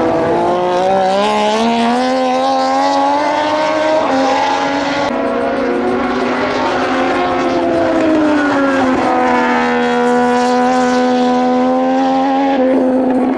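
Several Moto2 racing motorcycles with Triumph 765 cc three-cylinder engines running hard at high revs, their sounds overlapping. Engine pitch climbs in the first few seconds, drops about halfway through, then holds steady near the end.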